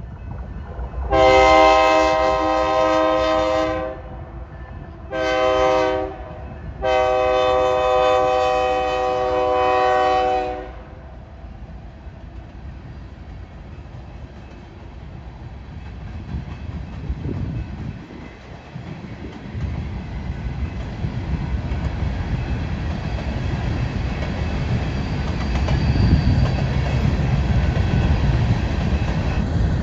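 BNSF diesel locomotive air horn sounding three blasts, long, short, long, then the low rumble of the coal train growing louder as it approaches.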